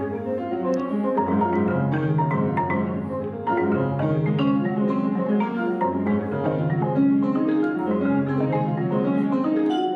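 Mallet-percussion music: quick, continuous struck notes over low held bass notes that change every second or two.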